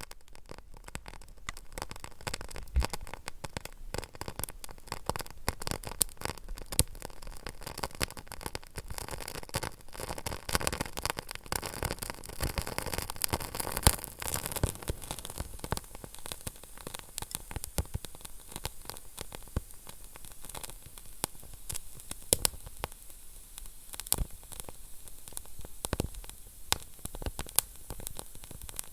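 Wood fire burning in a fireplace: a soft steady hiss with frequent sharp crackles and pops as the logs burn.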